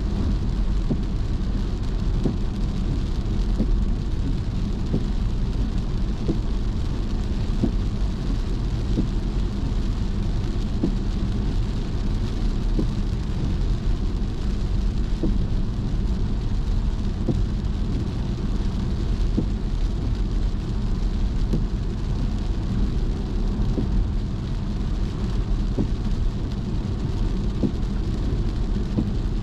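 Car driving in the rain: a steady low rumble of engine and tyres on wet road, with scattered raindrop taps on the car.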